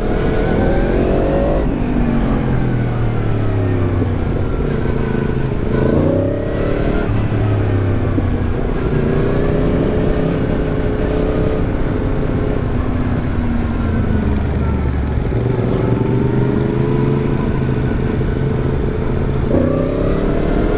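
Yamaha MT-10's crossplane inline-four running through an Arrow aftermarket exhaust while riding, the engine pitch rising under acceleration and falling off several times, with a short dip around six seconds in. Wind noise rushes on the microphone throughout.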